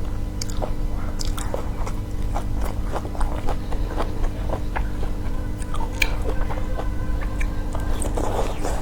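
A person biting and chewing food at close range, with many short, sharp crackling clicks, over a steady low hum.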